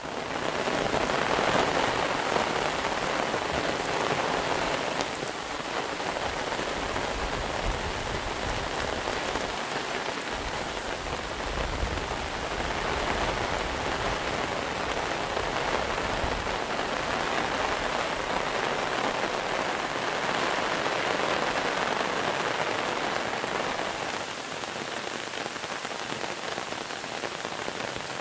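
Steady heavy monsoon rain pouring down, a dense even hiss of drops falling on surfaces, with a low rumble now and then. The rain eases a little near the end.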